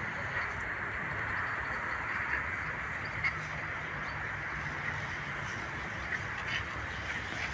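Ducks quacking over a steady background hiss.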